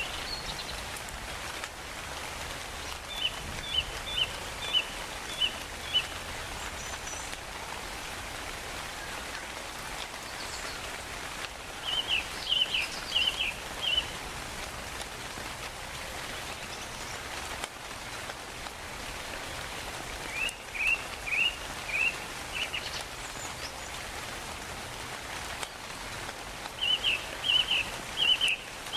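Steady rainfall, with a bird calling four times in short runs of four to six quick chirps, several seconds apart.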